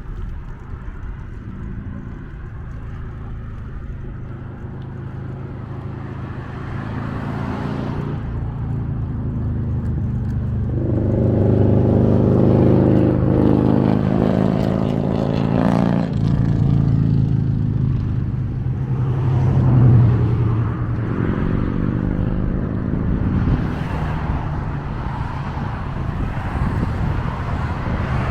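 Motor vehicle traffic going by close at hand: an engine's hum builds steadily to its loudest about halfway through, shifts in pitch, and then another vehicle swells past a few seconds later.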